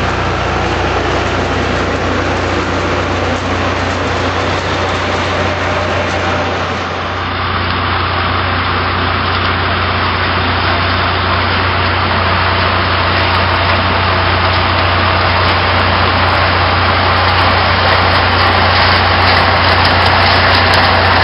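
Pixall BH-100 mechanical pea picker at work: a loud, steady engine and machinery drone, dipping briefly about a third of the way through.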